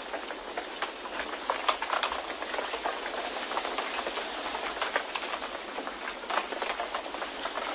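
Wind ambience: a steady rushing hiss, dotted with many small crackles and taps.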